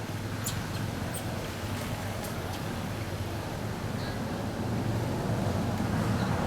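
Steady low background rumble, growing a little louder after about four and a half seconds, with a few brief high chirps or clicks in the first half.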